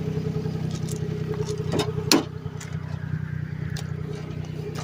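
Geo Metro engine idling steadily, with a couple of sharp knocks or clicks about two seconds in.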